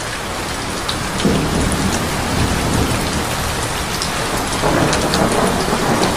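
Steady heavy rain, with separate drops ticking close by and two low swells of rumble, about a second in and again around five seconds in.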